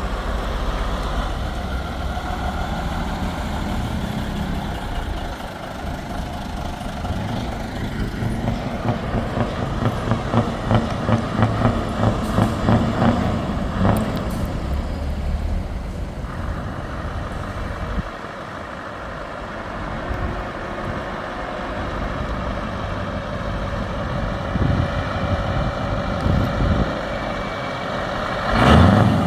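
Heavy diesel trucks driving past one after another, their engines running with a rapid pulsing for a few seconds midway and a louder surge near the end.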